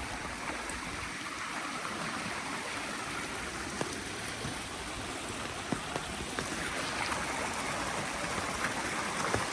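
Rain-fed creek running steadily, an even rushing of water with a few faint clicks.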